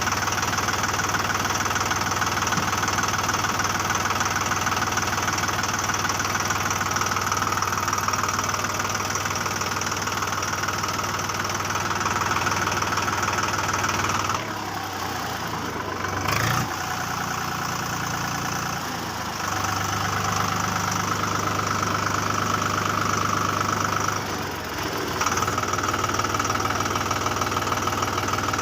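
A motor running steadily with an engine-like knocking idle. It changes and drops in level for a few seconds about halfway through, with a brief sharp sound in the middle of that dip, and dips briefly again near the end.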